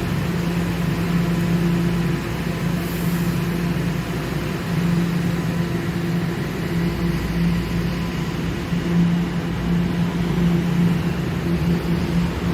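TTC subway train giving off a steady electric hum, a low tone with a fainter higher one above it, over an even rushing noise.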